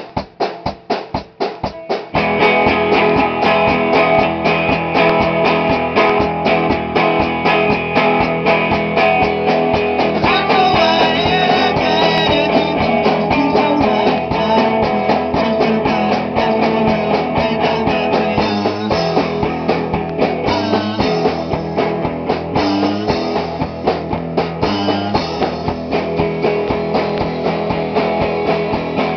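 Rock band playing with electric guitar, bass and drum kit. A run of quick, even ticks comes first, and the full band comes in about two seconds in.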